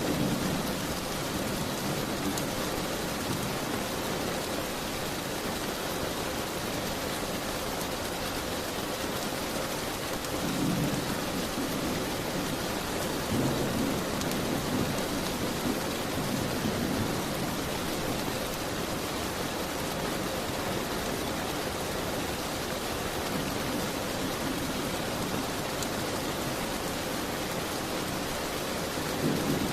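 Steady heavy rain hissing against a window, with soft low rumbles swelling up a few times, about ten seconds in and again near the end.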